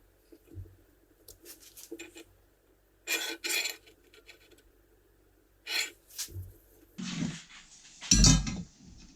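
Metal pieces being handled, clinking and knocking in irregular bursts, with a heavier clank near the end.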